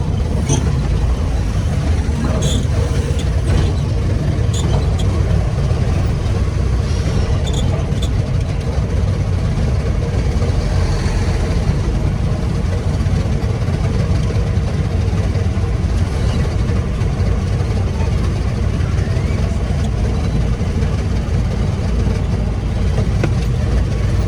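Old Nissan 4x4 truck's engine running steadily with a deep, even rumble, with a few light clicks in the first several seconds.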